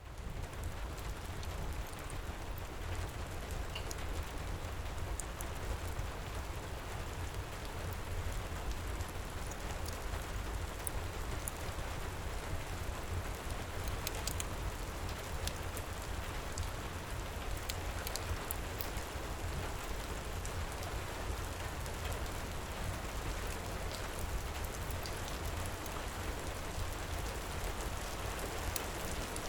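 Heavy steady rain pouring, with a deep low rumble underneath and scattered sharp crackles from a wood fire in a fireplace.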